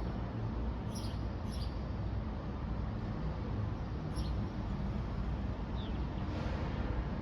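Steady low outdoor rumble with several short, high bird chirps: two close together about a second in and another around four seconds in.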